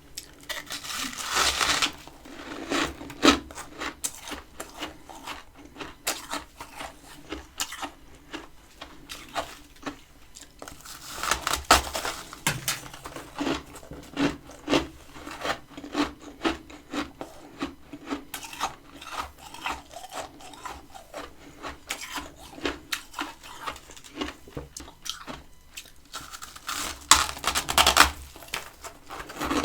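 Freezer frost being bitten and chewed close to the microphone: a steady run of crisp crunches, with louder bursts of crunching about a second in, around the middle and near the end.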